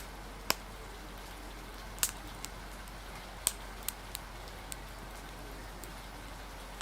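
Rain ambience with a crackling wood fire: a steady hiss of rain with irregular sharp pops and crackles, about eight in all.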